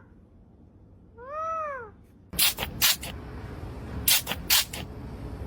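Parrot giving one short meow-like call that rises and falls in pitch, then a run of loud, harsh, noisy screeches.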